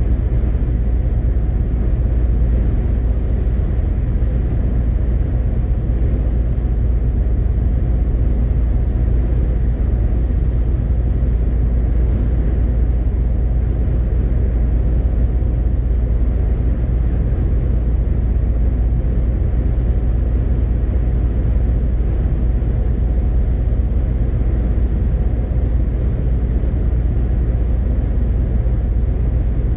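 MAN TGX 18.520 truck running steadily on the road: a constant low drone of its 12.4-litre six-cylinder diesel engine mixed with tyre and road noise, with no change in pace.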